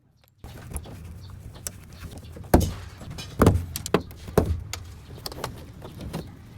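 Repeated sharp knocks and clanks over a steady low hum, starting after a brief silence. Four loud strikes fall between about two and a half and four and a half seconds in, each with a short falling ring.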